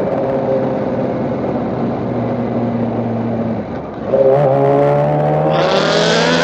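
Motorcycle engine running at a steady speed, easing off briefly a little under four seconds in, then accelerating with a rising pitch through to the end.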